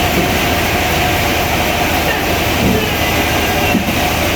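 Sawmill machinery running with a steady, loud mechanical drone and a faint steady whine.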